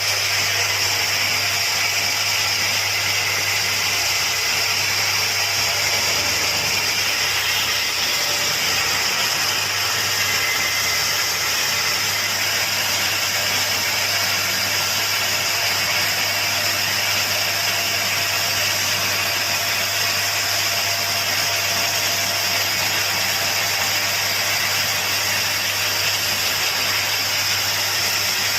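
Woodworking machine running steadily: a constant hiss with a low hum underneath, no change in load.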